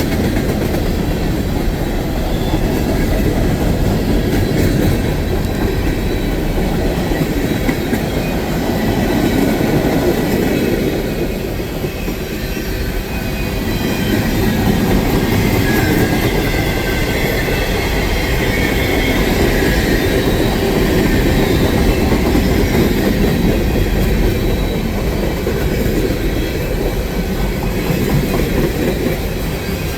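Train cars rolling past steadily, their wheels clattering over the rail joints, with a faint thin wheel squeal about halfway through.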